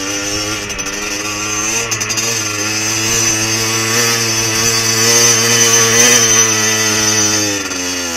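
Beta dirt bike engine running under throttle while climbing a grassy track. Its note rises a little in pitch and loudness midway, then drops as the throttle is eased near the end.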